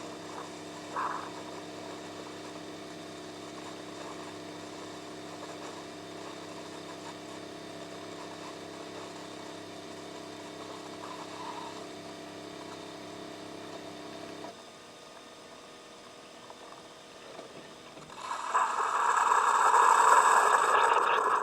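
Single-serve pod coffee maker brewing one cup: a steady hum that stops about two-thirds of the way through, then a loud hissing sputter near the end as the brew finishes.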